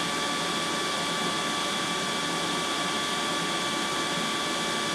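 Pro'sKit SS-331 desoldering gun's built-in vacuum pump running steadily, a constant whirring hiss with a faint steady whine, pulling air through its just-cleared nozzle.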